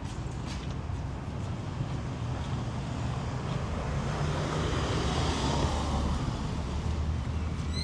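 Street traffic: a steady low rumble of engines, with a motor vehicle passing close by, its engine and tyre noise swelling to loudest about five or six seconds in and then easing. Right at the end a rising electronic chirp begins.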